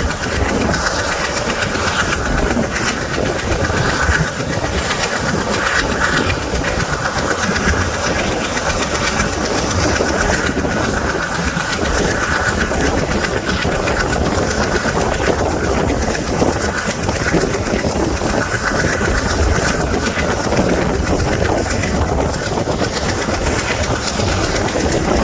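A train running steadily along the track, with continuous wheel-on-rail noise.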